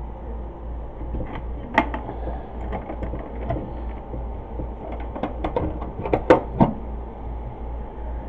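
Scattered light clicks and knocks of things being handled, several in quick succession a little past the middle, over a steady low hum.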